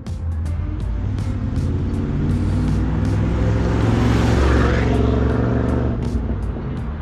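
1986 Chevrolet Camaro IROC-Z's 305 V8 with tuned-port injection driving past. Engine and tyre noise build to their loudest as the car passes close, about four seconds in, then fade as it drives away.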